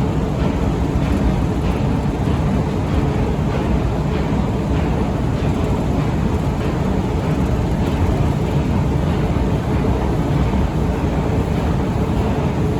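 Long Otis metro escalator running: a steady mechanical rumble with a faint, regular ticking over it.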